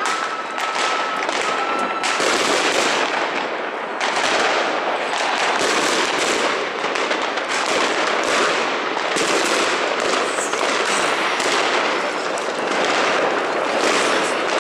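Fireworks and firecrackers going off in a dense, non-stop barrage of overlapping cracks and bangs. A thin whistle sounds through the first two seconds.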